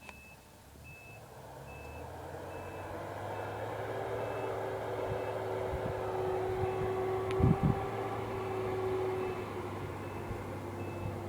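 Snowplow truck's reversing alarm beeping at an even pace, over its engine, which grows louder as the truck works closer. A couple of knocks come about two-thirds of the way through.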